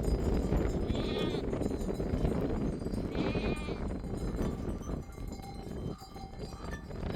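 Sheep bleating: two short, quavering calls about two seconds apart, over a steady low noise.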